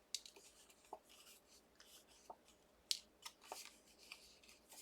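Faint rustling and light ticks of card-stock die cuts being handled, with one sharper click about three seconds in.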